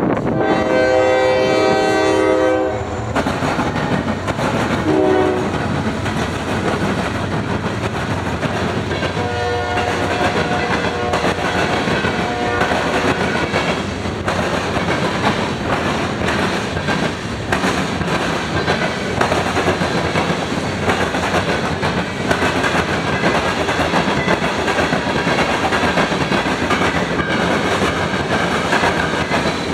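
Freight train horn sounding a long blast, a short one about two seconds later, then another long blast. Under the horn and after it, the train rolls past with steady rumble and wheel clickety-clack over rail joints.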